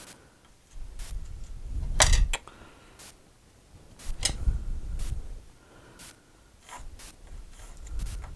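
Wooden drawer panels being handled and set down on a workbench: scattered clicks and knocks, the loudest about two seconds in and again just after four seconds.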